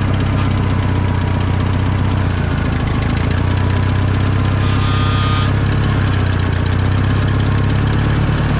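International 2400B tractor engine running steadily, with a brief hiss about five seconds in.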